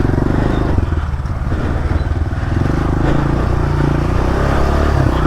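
Honda CRF125F dirt bike's single-cylinder four-stroke engine running steadily on a trail ride, its note picking up a little about halfway through.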